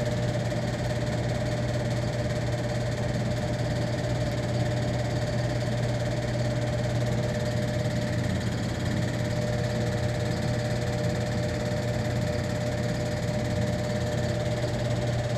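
A machine running with a steady low hum and a constant whine above it, unchanging throughout.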